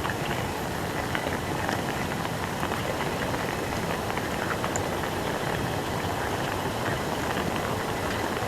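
Heavy rain falling steadily: a dense, even hiss with scattered ticks of drops striking close by.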